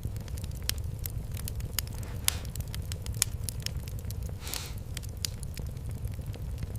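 Fire in a fireplace crackling, with irregular sharp pops over a steady low rumble of the flames and a brief hiss about four and a half seconds in.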